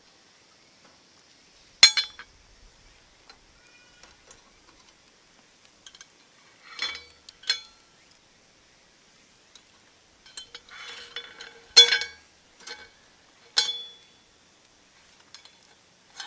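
Cookware and utensils clinking: about six separate sharp clinks, each with a short ringing tone, the loudest coming just after a soft rustle.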